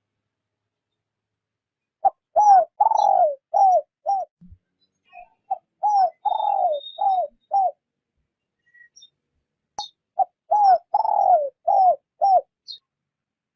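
Spotted dove cooing: three phrases a few seconds apart, each a run of five or six low notes with a short first note and longer, falling notes after it.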